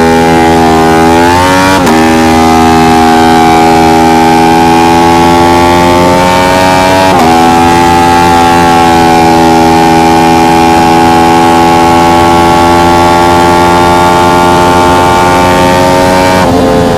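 Aprilia RS660 Trofeo's parallel-twin engine at full throttle, with two quick upshifts about two and seven seconds in, each a brief dip in pitch before the revs climb again. It then holds high revs, rising slowly, until the revs fall near the end as the bike slows.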